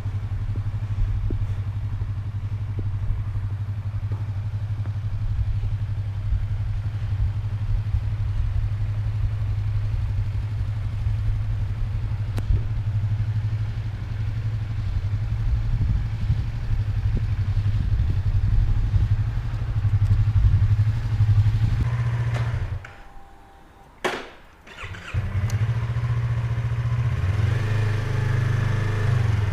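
Yamaha YZF-R25's parallel-twin engine and exhaust running steadily on the move, heard from inside the rider's helmet. About 23 seconds in the sound drops away sharply for roughly two seconds, broken by a single click, then the engine sound returns.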